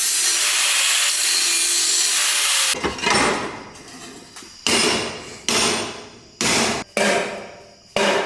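A loud, steady rushing noise for nearly three seconds, then a series of hammer blows on metal, about six, each ringing out and fading before the next.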